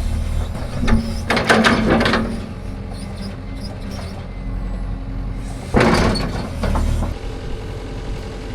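Heavy machine engine running steadily, likely the excavator, with two bouts of scraping and clattering of metal against rock as holes are dug in rocky ground: one about a second in and one near six seconds.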